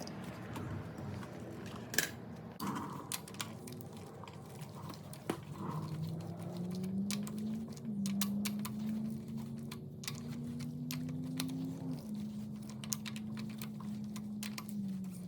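Scattered light clicks and clinks of hand tools and metal parts being handled during an engine teardown. A low steady hum comes in about five seconds in and shifts in pitch a few times.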